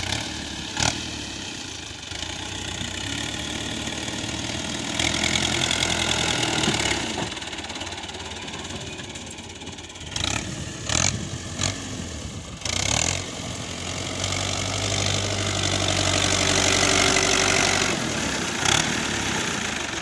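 Tractor diesel engine running and working, twice pulling harder and louder for a few seconds, with a few short sharp metallic clanks.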